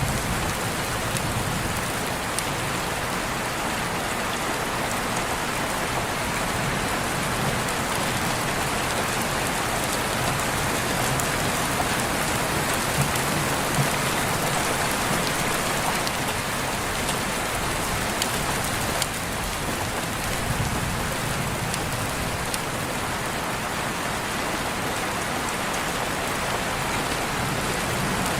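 Steady rain falling and pattering on surfaces, with scattered individual drips.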